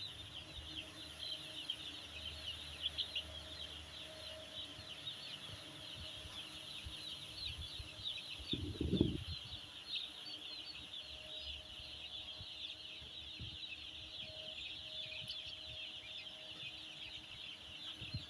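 A flock of week-old broiler chicks peeping constantly, many high-pitched chirps overlapping. A single low thud about nine seconds in.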